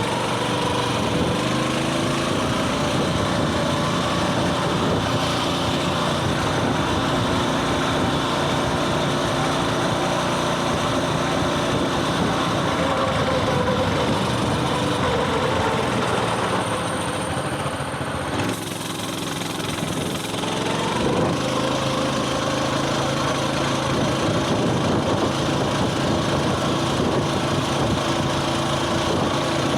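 Coleman mini bike's small single-cylinder engine running while riding, its pitch shifting with the throttle. A little past halfway the engine briefly drops off, then revs back up.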